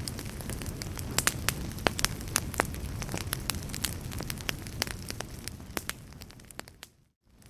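Wood fire crackling in a fireplace: frequent sharp pops and snaps over a low steady rumble of burning. Near the end it fades out to a moment of silence, then the crackling starts again.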